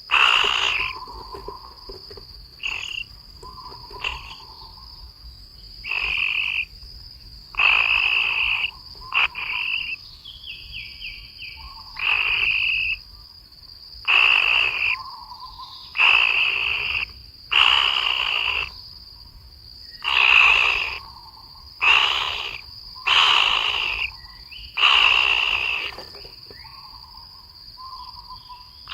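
Loud animal calls repeating about every one to two seconds, each under a second long, with softer calls between them, over a steady high-pitched drone.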